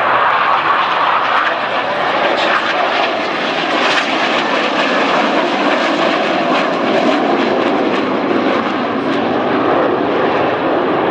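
Jet noise of Northrop F-5E Tiger II fighters, powered by twin J85 turbojets, flying past: a loud, steady rush that holds throughout.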